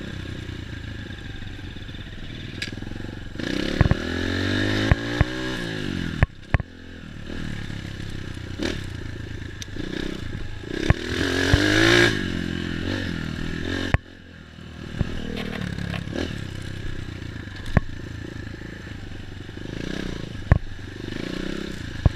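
Dirt bike engine running, revving up and easing off twice, about four seconds in and again around eleven seconds in, with scattered sharp knocks and rattling.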